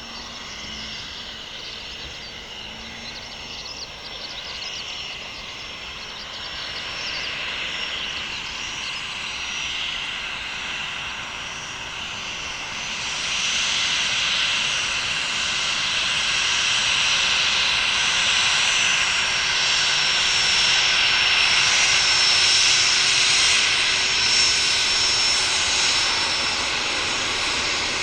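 Cessna Citation Mustang's twin Pratt & Whitney Canada PW615F turbofans whining at taxi power as the jet turns at the runway end. The sound grows louder about halfway through.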